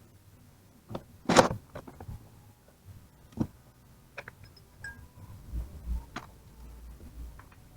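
Scattered knocks and clicks of alternator parts and hand tools being handled during the bearing replacement, the loudest a short sharp clatter about a second and a half in, another knock about two seconds later, then lighter ticks and dull thuds.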